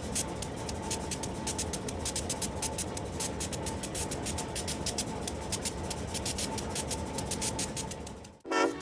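Narrow-gauge train running on the rails: rapid, irregular clicking and scraping over a steady rumble, with a faint steady squeal. It cuts off suddenly near the end.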